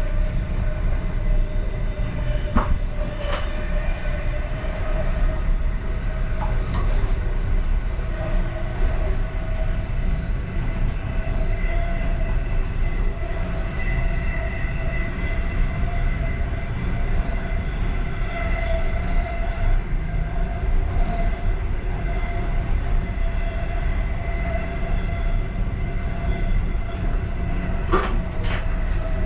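Passenger train running steadily, heard inside the last car: a continuous rumble of wheels on the track with a steady whine over it. A few sharp clicks come through, a pair about 3 seconds in and another pair near the end.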